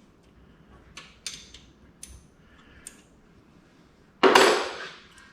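Light metallic clicks and clinks of hand tools working bolts on engine hardware, then a louder clatter about four seconds in that dies away within a second.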